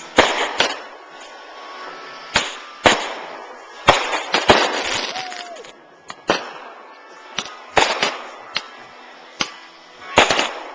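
Fireworks going off: about a dozen sharp bangs at uneven intervals, each trailing off briefly.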